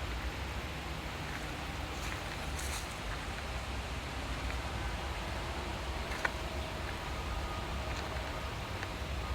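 Outdoor forest ambience: a steady hiss of rustling with a low rumble underneath, a few faint clicks, one sharper tick about six seconds in, and faint held tones in the second half.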